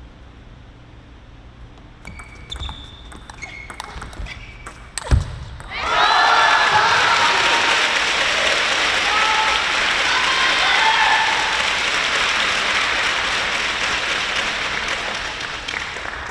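A table tennis rally: the celluloid ball clicking on bats and table with a few shoe squeaks on the court floor, ending with a sharp hit about five seconds in. Then a crowd cheers and applauds loudly with shouting voices for about ten seconds, slowly fading.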